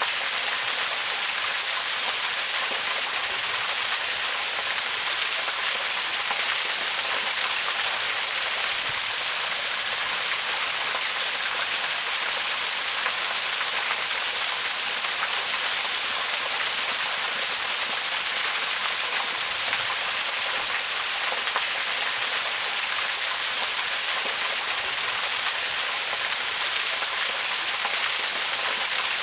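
Waterfall: a steady, even rush of falling water, mostly hiss with little low rumble, unchanging throughout.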